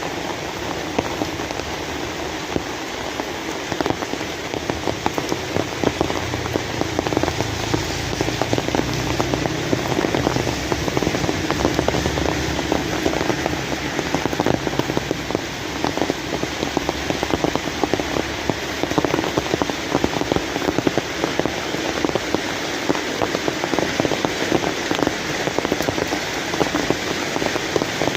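Steady rain falling, with a continuous hiss and many separate drop ticks throughout.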